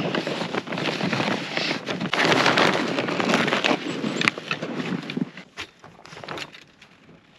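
Rustling, crunching and clicking of a folding heated camp chair being taken out and set up, dense for about five seconds, then fainter scattered crunches and clicks.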